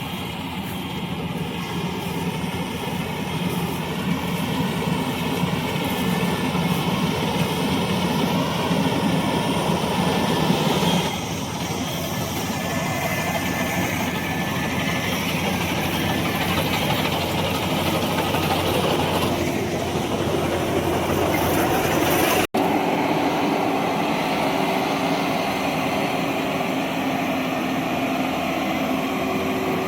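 Combine harvester running steadily in a paddy field, its diesel engine and machinery making a loud, continuous mechanical noise. The sound shifts a little about a third of the way through and cuts out for an instant about two-thirds of the way through.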